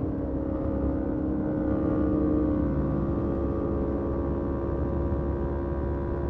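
Motorcycle engine running while riding at a fairly steady pitch, easing slightly about three seconds in, over a low rush of wind and road noise.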